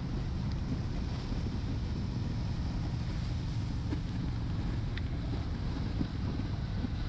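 Honda Shadow 750's V-twin engine running steadily while under way, with wind rushing over the microphone.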